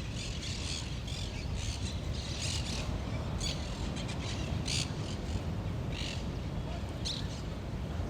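Birds calling with many short, high calls, scattered irregularly over a steady low rumble.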